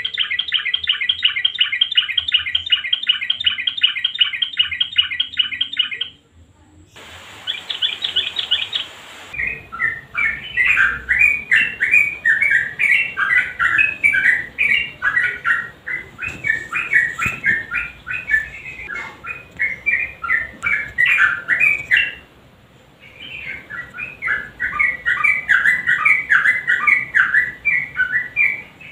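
Sooty-headed bulbul singing: first a fast, even run of repeated clicking notes for about six seconds, then after a short pause a long stretch of varied, bubbling warbled phrases, broken once briefly about 22 seconds in.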